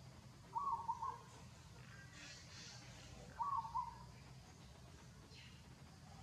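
A bird calling: a short hooting phrase of a few quick notes, repeated twice, about three seconds apart.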